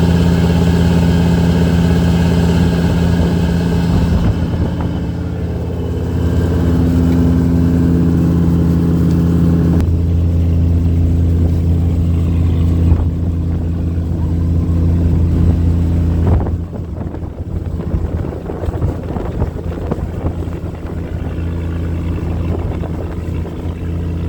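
Boat engine running steadily with a low, even drone; about two-thirds of the way in it drops in level and turns rougher.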